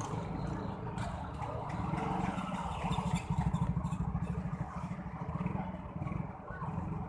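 A vehicle engine running close by with a low, rapid putter that swells about three seconds in and then eases, over a steady background hiss.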